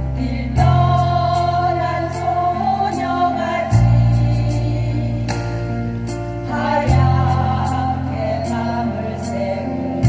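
A vocal ensemble singing a Korean ballad in harmony over an accompaniment. The accompaniment has a deep bass line that moves to a new note every three seconds or so, and light, regular percussion hits.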